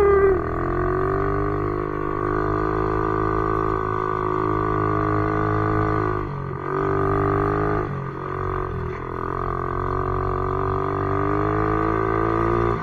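Pit bike engine running under throttle, its pitch rising at first and holding, with short drops about six and a half and eight seconds in as the throttle eases, then climbing again.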